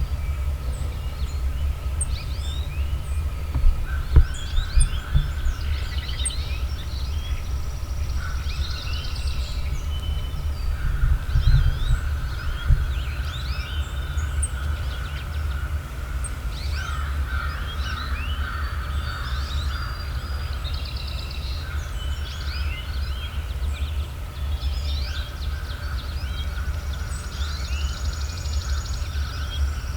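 Songbirds singing in the woods: many short chirps, whistles and trills overlapping throughout, with a steady low rumble underneath and a few dull thumps around four seconds in and again around twelve seconds.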